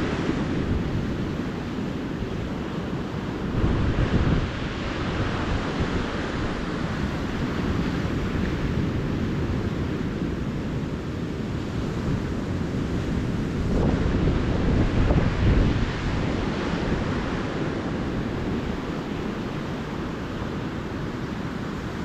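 Ocean surf washing onto the beach, with wind buffeting the microphone as a low rumble. The waves swell louder about four seconds in and again around fourteen to sixteen seconds in.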